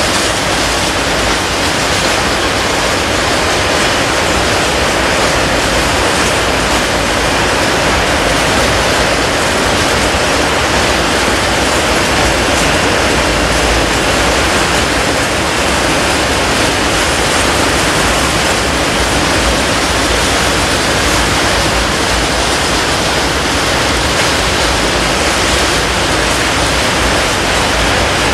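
Freight train of tank wagons rolling past: a steady, continuous rushing noise of steel wheels on the rails, with no distinct clicks or beat.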